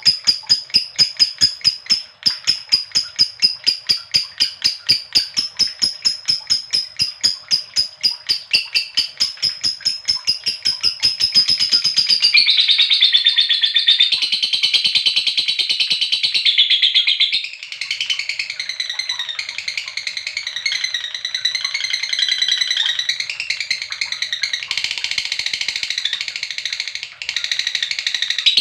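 Lovebird ngekek: a long run of quick repeated calls, about five a second, that turns about halfway through into a dense warbling chatter wavering up and down in pitch.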